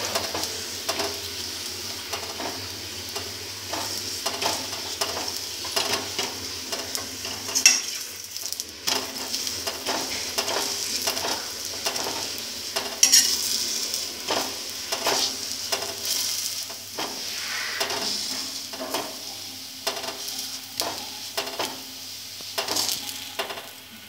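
Paratha sizzling in mustard oil on a hot tawa while a steel spoon presses it down so it fries crisp through, with repeated taps and scrapes of the spoon on the griddle. Two sharper metal clinks stand out, about a third of the way in and again just past halfway.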